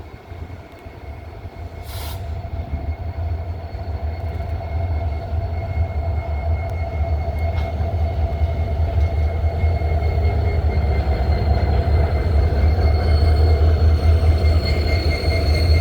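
Norfolk Southern train rolling by, a steady rumble of cars on the rails that grows louder, with a thin high wheel squeal running through it.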